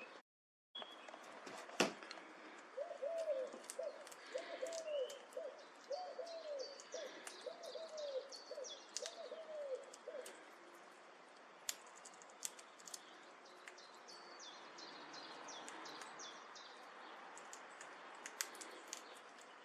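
Birds calling: a run of low hooting notes, about two a second, lasting several seconds and stopping about halfway through, over high short chirps from small birds. A sharp click comes about two seconds in.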